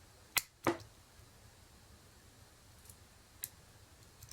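Small sharp clicks of a pin-tumbler lock being picked, pick and tension tool working the pins: two clicks about a third of a second apart near the start and one fainter click later.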